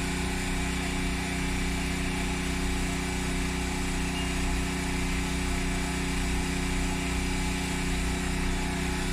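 A steady machine hum, low and even, with a thin high whine over it and no change in level.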